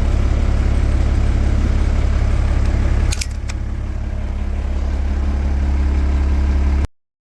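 Mercedes-Benz OM-366A six-cylinder diesel engine of a bus running with a deep, steady rumble. About three seconds in there are two sharp clicks and the engine sound drops, then builds again, before the sound cuts off abruptly near the end.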